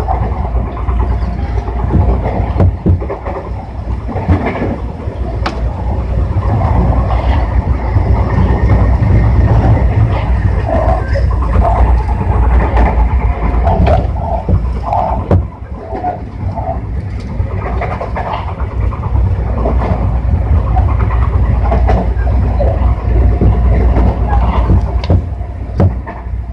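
Tobu 60000 series electric train running at speed: a steady low rumble with repeated clacks and knocks from the wheels on the track.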